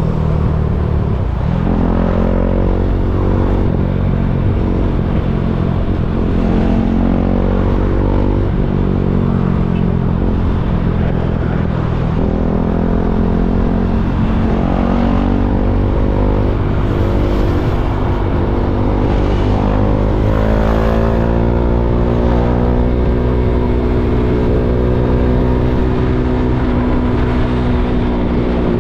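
KTM Duke 390's single-cylinder engine running under way, its pitch rising with revs and dropping back again several times as it accelerates and shifts.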